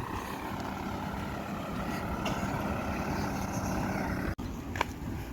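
Heavy road-work vehicle engine running steadily with a low hum. The sound breaks off for an instant about four seconds in, then resumes more faintly.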